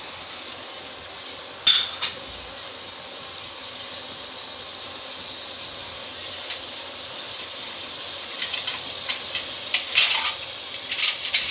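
Chicken in tomato puree sizzling in a steel pot, a steady frying hiss. A steel ladle clinks sharply against the pot about two seconds in, and a quick run of clinks follows near the end.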